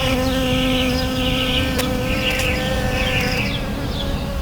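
A Perdita rhois bee buzzing close to the microphone at a flower: a steady, pitched hum with a slight shift in pitch about three seconds in.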